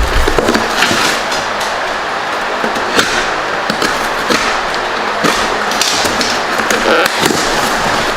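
Hardened spray-foam packing and cardboard being broken apart and pulled away by hand from around an engine: a continuous crunching rustle with many small cracks and knocks.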